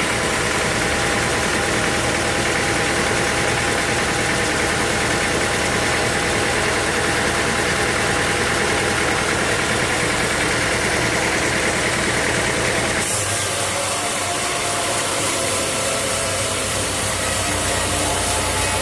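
Sawmill machinery running steadily with an engine-like drone. The sound changes abruptly about thirteen seconds in, to a brighter hiss over a different low hum.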